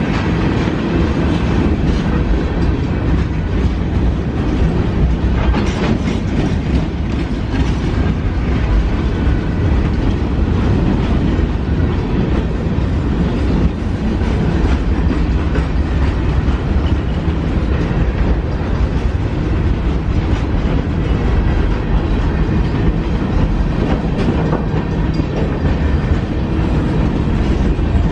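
A train rolling past at close range: a steady, loud rumble with the wheels clattering over the rail joints.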